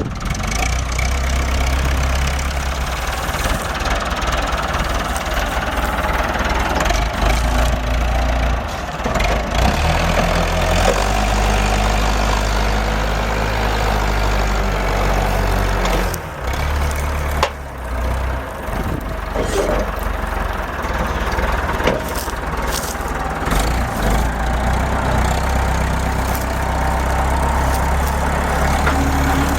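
Tractor engine running steadily, its pitch shifting several times, with abrupt changes about halfway through and again later on.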